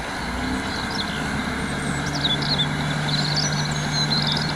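A truck engine idling steadily, with a low steady hum, while birds chirp high above it.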